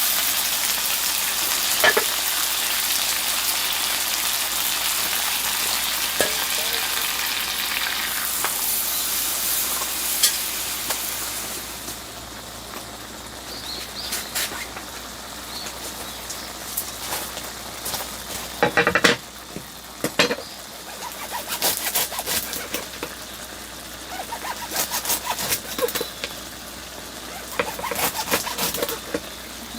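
Food sizzling as it fries in a pan, loud for about the first twelve seconds and then quieter, with scattered clinks and knocks of stirring utensils against the pan, thickest in the middle and near the end.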